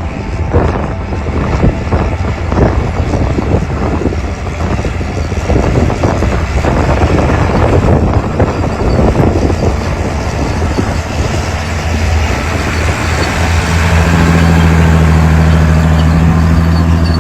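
John Deere 8400T tracked tractor's 8.1-litre diesel engine running under load while it pulls a cultivator, with irregular rattling and clatter over the drone. From about three-quarters of the way through, the engine note becomes steadier and slightly louder.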